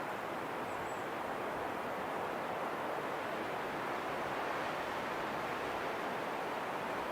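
Wind blowing steadily: an even rushing hiss that holds at one level without gusts or breaks.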